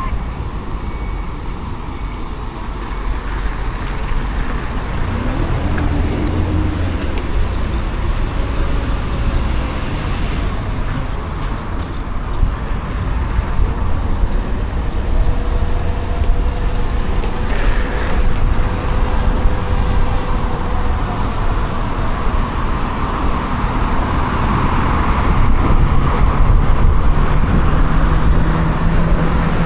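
Riding noise on a Kukirin G2 electric scooter: wind rushing over the action camera's microphone with rumbling road noise, steady and getting a little louder toward the end.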